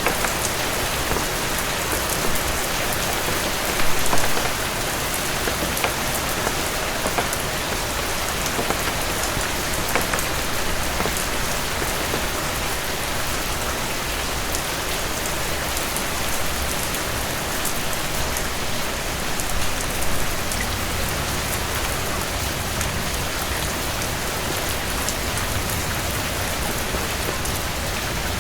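Heavy rain falling steadily, a dense even hiss with scattered sharp clicks, swelling briefly louder about four seconds in and again around twenty seconds in.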